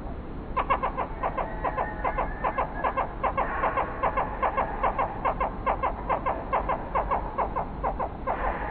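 A bird calling in a long, rapid series of short, evenly spaced notes, about five a second, starting about half a second in and stopping near the end.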